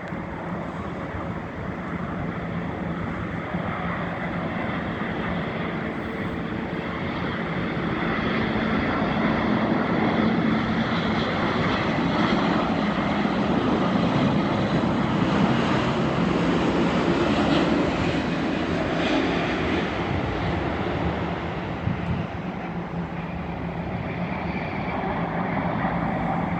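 Boeing 787-9 Dreamliner on its landing approach, the jet engines' roar building as it comes closer, loudest about halfway through, then easing off as it passes.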